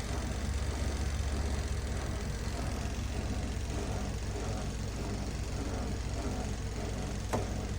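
Twin-tub washing machine's wash tub running with a steady low motor hum, with one sharp click near the end.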